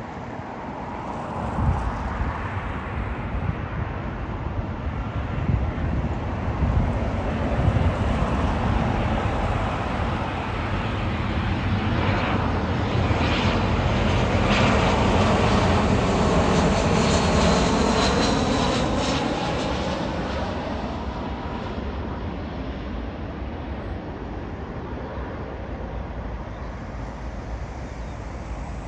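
Jet airliner on approach to land passing close overhead: its engine noise swells to a peak about halfway through with a sweeping, phasing quality, then fades away. Gusty wind buffets the microphone underneath.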